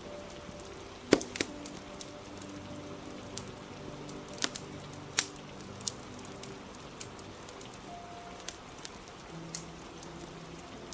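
Crackling fire snapping with sharp, irregular pops, the loudest about a second in, over a steady hiss of rain, with soft music faintly underneath.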